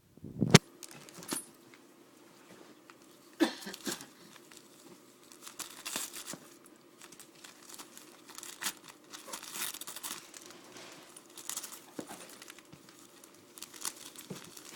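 Wrapping paper crinkling and tearing in irregular bursts as a cockapoo rips open a gift, with a sharp knock about half a second in.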